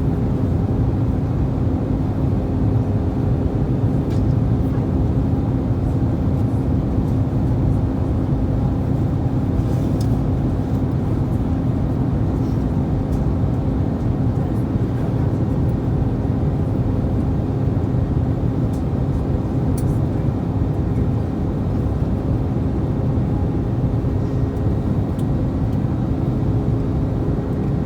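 Airbus A321 cabin noise in flight: a steady low rumble of engines and airflow, with two steady hums over it and a few faint ticks.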